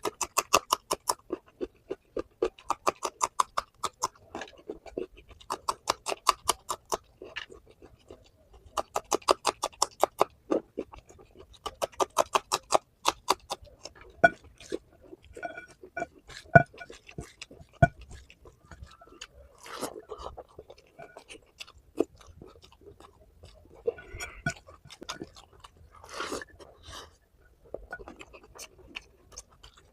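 Close-miked open-mouth chewing of curry and rice: runs of rapid wet mouth clicks, about a dozen a second in bursts a second or two long, through the first half, then slower, scattered bites and crunches.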